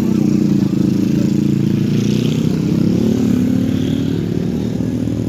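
Heavy vehicle's engine running steadily, its pitch drifting slightly up and down.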